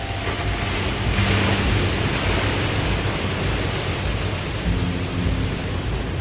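Waterfall, a steady rush of falling water that swells a little about a second in, with a few faint, held low notes of soft background music.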